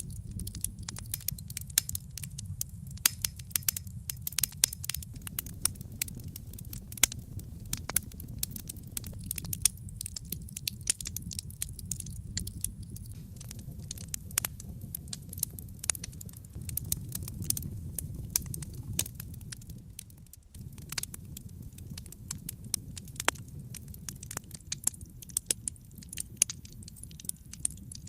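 Wood fire crackling in a fireplace: frequent sharp pops and snaps over a steady low rumble of burning flames. The sound dips briefly about two-thirds of the way through.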